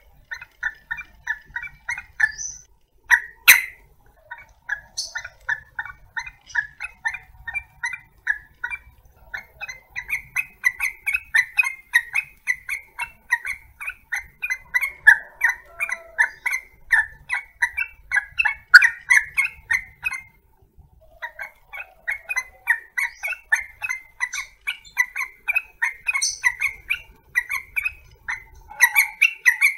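Yellow-vented bulbuls (trucukan) giving fast, chattering calls, several short notes a second. The notes break off briefly a little after two-thirds of the way through.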